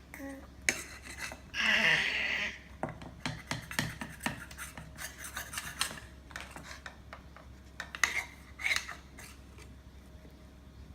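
A spoon clicking and scraping against a dish as a baby is fed, with a loud short baby vocal sound, an "arhhh", about two seconds in and two briefer ones near the end.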